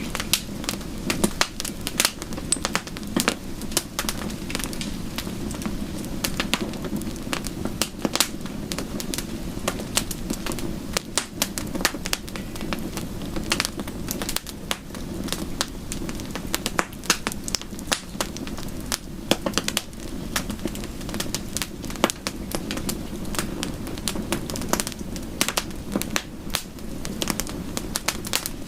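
Bonfire crackling: frequent sharp pops and snaps over a steady low background of burning.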